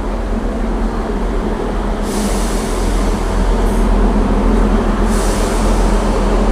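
A Class 158 diesel multiple unit's engine running at the platform: a steady low rumble with a hum, and two bursts of hissing about three seconds apart.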